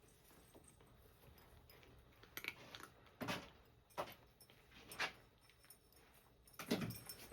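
A cat eating from its food bowl: irregular crunching and clinking strokes about once a second, the loudest one near the end.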